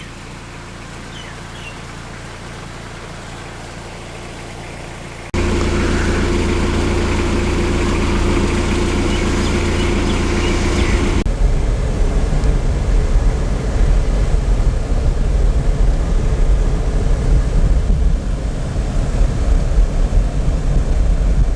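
A car engine idles with a steady hum. It jumps abruptly louder about five seconds in, then gives way to a louder, uneven low rumble about eleven seconds in.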